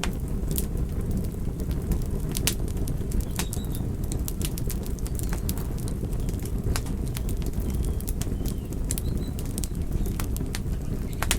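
Wood fire crackling: a steady low rush of burning with frequent irregular sharp pops and crackles.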